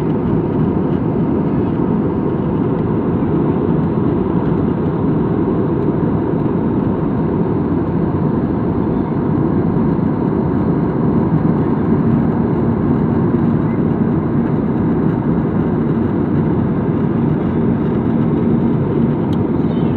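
Steady, loud rumble of engine and airflow noise heard inside an aircraft cabin in flight. A faint steady hum joins about halfway through.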